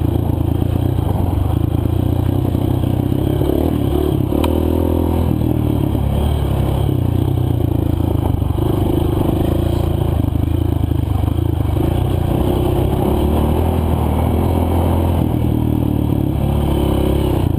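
Single-cylinder four-stroke engine of a Honda CRF230 dirt bike running under load on a trail, its pitch rising and falling as the throttle opens and closes, with rattling and clatter over rough ground.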